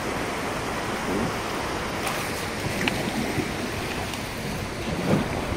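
Steady rush of river water with wind buffeting the microphone, and a few faint clicks.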